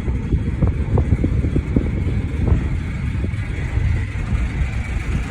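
Strong sea wind buffeting the microphone: a loud, gusting low rumble, with a faint steady hum behind it.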